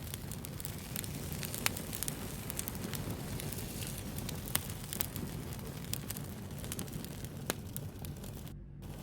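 Wood fire burning with a steady low rush and scattered sharp crackles and pops, a few of them louder than the rest. Near the end the crackle cuts out for a moment, leaving only the low rumble.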